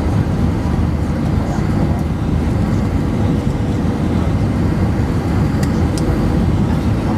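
Steady low rumble of an Airbus A320-232 airliner heard from inside the cabin: engine and airflow noise with no change in pitch.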